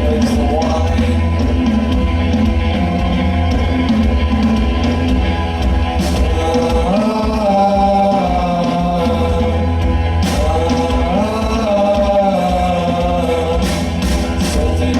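Live rock band playing a song: a sung vocal over electric guitar, bass and drums.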